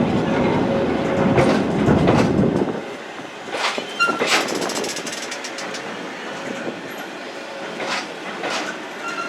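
Train running on rails: a heavy rumble for the first few seconds that drops away abruptly, followed by quieter scattered clacks and brief high squeals.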